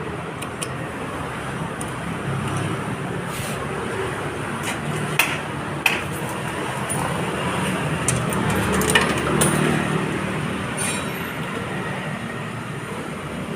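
Excavator's diesel engine running with a steady drone that swells about two-thirds of the way through, with scattered sharp clinks and knocks.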